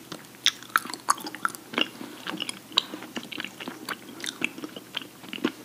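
Close-miked chewing of raw honeycomb: many quick, irregular clicks of the wax and honey in the mouth.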